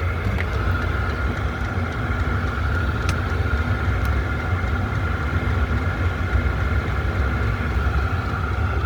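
A 6 kW diesel air heater running: a steady low rumble with a steady higher hum above it.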